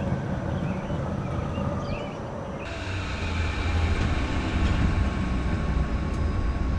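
Car engine running with a steady low rumble. About a third of the way in the sound changes abruptly and the rumble becomes stronger.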